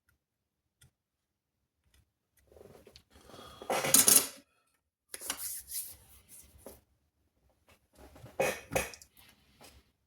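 Small hard objects clinking and rattling as they are handled and set down, in irregular bursts, loudest about four seconds in and again near the end.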